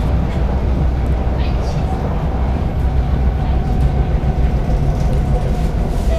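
Singapore MRT train running between stations, heard from inside the carriage: a steady low rumble of wheels on the track and the running train.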